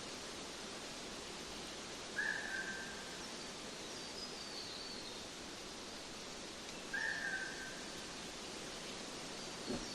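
A bird calling, a short whistled note that falls slightly, repeated about every five seconds, with fainter higher chirps in between, over a steady background hiss.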